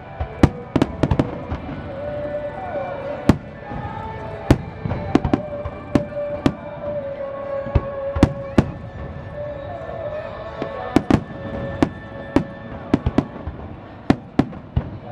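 Aerial firework shells bursting in a rapid, irregular barrage: many sharp bangs, often in quick pairs or triplets, over music playing in the background.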